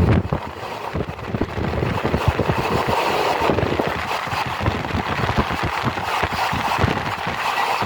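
Passenger train running at speed: a steady rushing rumble of the carriage on the track, with irregular low buffeting of wind on the microphone.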